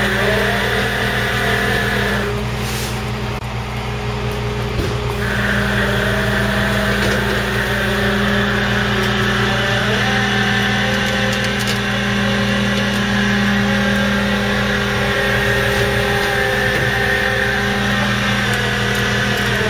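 Tow truck engine running steadily while its hydraulic winch whines, pulling a boat up onto the truck; the whine drops out for about three seconds near the start, then resumes.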